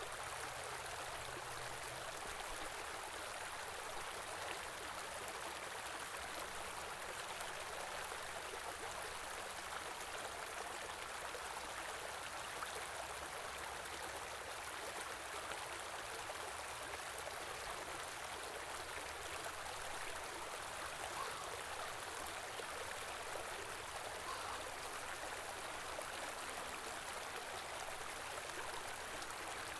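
Small river flowing steadily, a constant rush of water without breaks.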